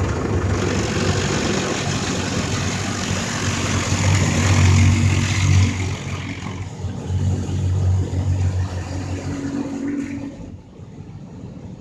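Automatic car wash's high-pressure water blasters spraying the vehicle: a dense hiss over a low pump hum. The spray eases off about six seconds in and drops away near the end.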